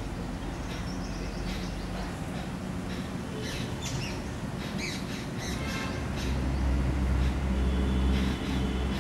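Birds calling in short, separate chirps and squawks, most of them around the middle. A low steady rumble comes in about two-thirds of the way through and becomes the loudest sound.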